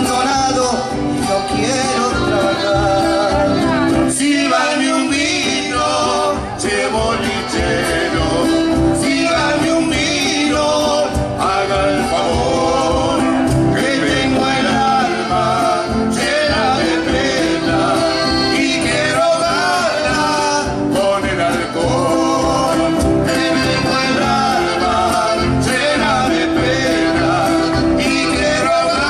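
Argentine folk song: a male voice singing over guitar accompaniment with a steady beat.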